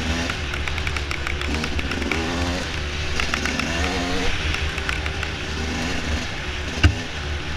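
Dirt bike engine running on a trail ride, its pitch rising and falling with the throttle, over a steady low rumble and many small rattling clicks. A single sharp knock about seven seconds in.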